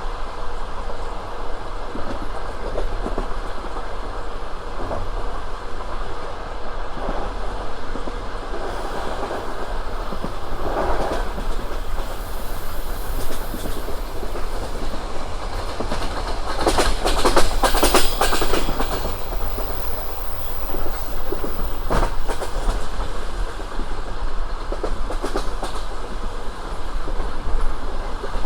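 Passenger train wheels clattering over the rail joints at speed, a steady rolling rumble with a cluster of sharper clacks about two-thirds of the way in and one more a few seconds later.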